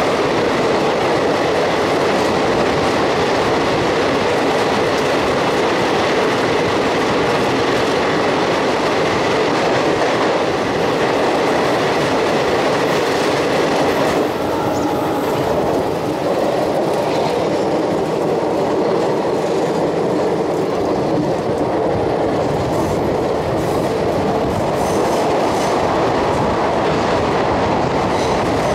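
Passenger train running through a rock tunnel, heard from an open coach door: a loud, steady rumble and clickety-clack of wheels on the rails. The hiss softens about halfway through.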